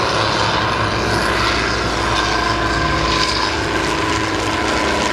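Stearman PT-17 biplane's seven-cylinder radial engine and propeller droning steadily in flight overhead.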